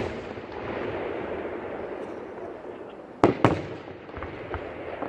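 Aerial fireworks display: a steady crackle of bursting shells, broken about three seconds in by two sharp bangs a quarter second apart, with scattered pops near the end.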